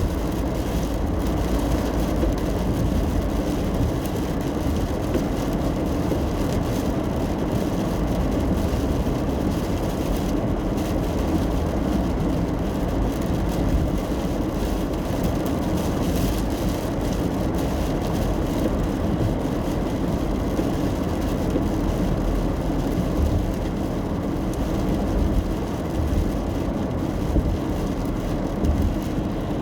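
Steady road noise inside a moving car driving in the rain: a low tyre and engine rumble with the patter of rain on the car.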